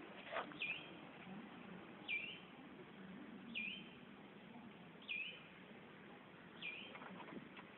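A bird calling over and over, a short chirp that slides down and settles on a brief steady note, about every second and a half. Faint clicks come near the start and again near the end.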